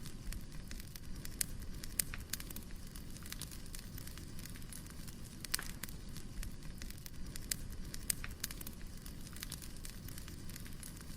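Wood fire crackling: irregular sharp pops and snaps of burning firewood over a low, steady rush, with a few louder pops about 2 and 5.5 seconds in.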